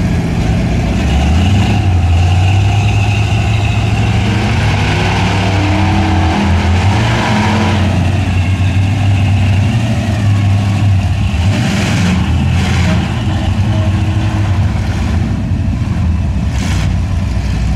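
Truck engine running and revving, its pitch rising and falling repeatedly.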